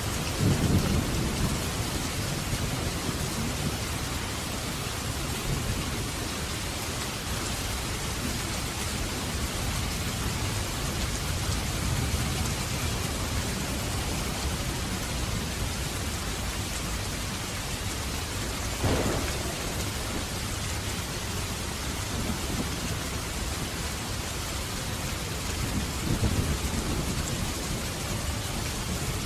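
Steady hiss of rain, with deeper rumbles swelling near the start and again near the end, and one brief sharper sound a little past halfway.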